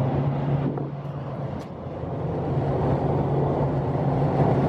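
Car cabin noise while driving: a steady low engine and road hum with tyre noise, dipping briefly about a second in.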